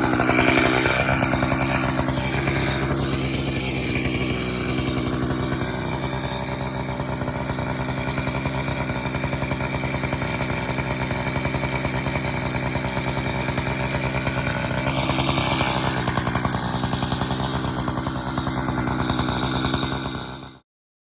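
Echo CS-590 60cc two-stroke chainsaw running steadily, its engine note shifting a few times under changing load, then cut off abruptly near the end.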